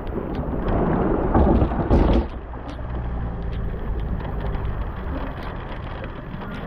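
Rain falling, with scattered drops striking close by, over a steady low rumble. A louder rush of noise comes between about one and two seconds in.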